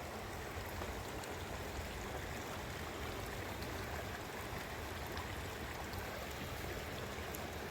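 Steady wash of heavy rain and running floodwater.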